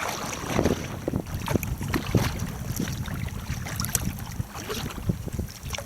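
Wind buffeting the microphone in a low rumble, with scattered short splashes of water around a sea kayak.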